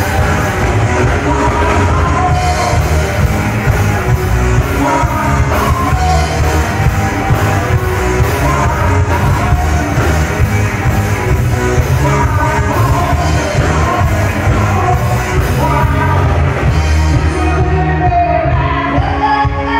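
Live band playing a rock song with a singer, loud, with heavy bass and a steady beat, heard in the hall's reverberation.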